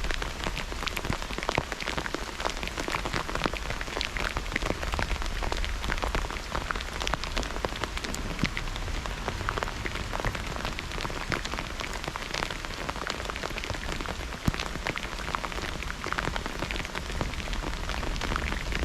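Steady rain during a thunderstorm, falling on a hard surface close to the microphone, with a dense run of separate drop hits over the hiss of the downpour; one drop strike stands out louder about three-quarters of the way through.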